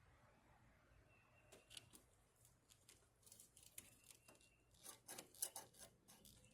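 Faint, irregular clicks and light clatter of hand tools and small parts being handled during work on a truck. Sparse at first, busiest in the second half.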